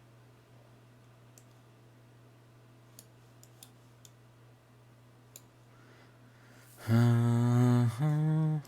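A man humming, holding two steady low notes for about a second each near the end, after a few scattered faint clicks.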